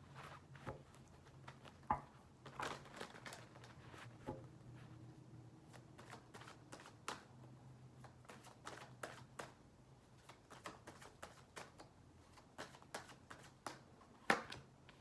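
Tarot cards being shuffled and handled: irregular soft snaps, flicks and taps of card stock, over a faint steady room hum.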